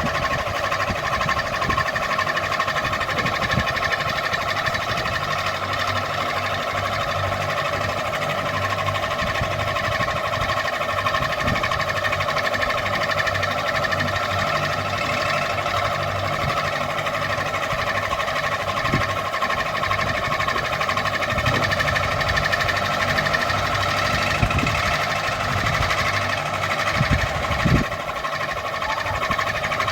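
Ceiling fan running steadily: a continuous motor hum and whirr, with a few soft low knocks.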